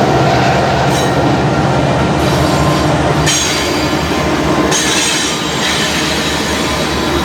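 Train rolling past close by: a steady rumble of railcars on the track, with high-pitched wheel squeal coming in about three seconds in and fading out about five seconds in.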